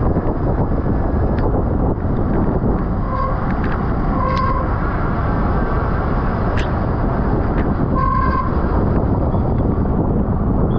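Steady wind rushing over a racing cyclist's camera microphone at speed. Three short, high toots or beeps break through it about three, four and eight seconds in.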